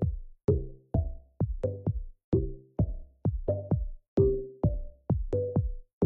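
Electronic background music with a steady drum-machine beat, about two hits a second, each hit carrying a short pitched tone.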